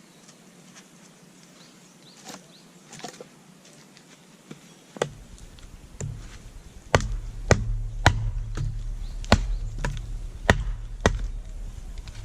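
Firewood being chopped or split: a few light strikes, then a steady run of sharp blows about every half second, over a low rumble that starts about halfway through.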